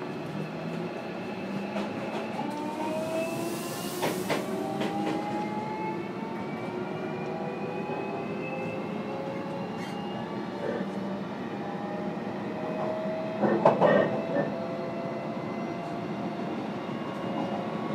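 JR Kyushu 305 series electric train heard from inside its motor car: the traction motors and inverter whine in several tones that climb steadily in pitch as the train gathers speed, over the running rumble of wheels on rail. Wheels clatter over the track about four seconds in and more loudly about fourteen seconds in.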